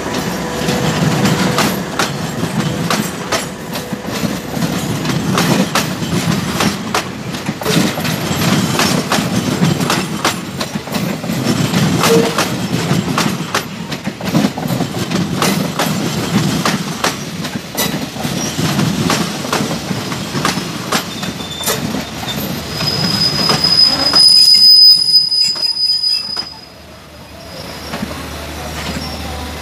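Passenger train coaches rolling past close by, their wheels clicking over rail joints above a steady rumble. A high wheel squeal rings out for about three seconds near the end, at the loudest point, and the sound then drops away sharply.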